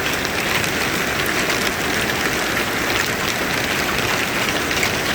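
Marble-size hail and heavy rain pelting down in a dense, steady patter of many small impacts.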